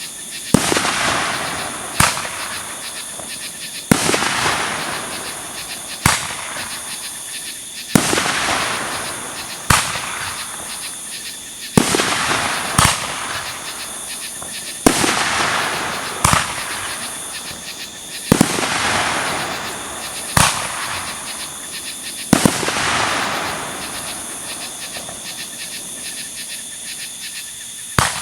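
Aerial fireworks going off: about a dozen sharp bangs, roughly one every two seconds, each followed by a crackling hiss that fades over a second or two.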